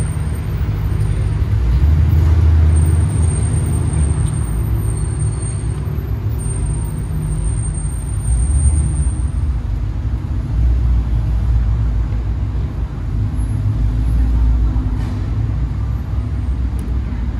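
Aston Martin sports car engines running at low revs in the hall, a low rumble that swells and eases several times as the cars are moved into line.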